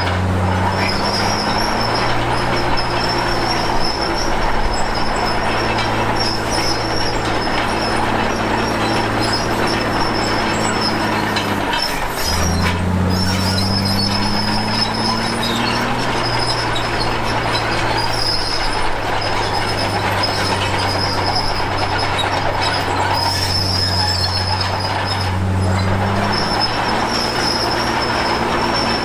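Komatsu D53P crawler bulldozer working: its diesel engine runs steadily, with its pitch climbing three times as it takes up load. A high, intermittent squeal comes from its steel tracks.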